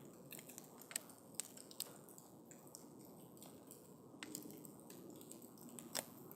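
Wood campfire crackling: a soft steady rush of burning with scattered sharp pops of the wood, three close together about a second in and a louder one near the end.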